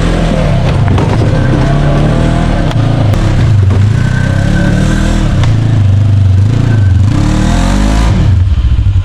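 Side-by-side UTV engine revving up and down repeatedly as it crawls over trail obstacles, then dropping to a steady idle near the end.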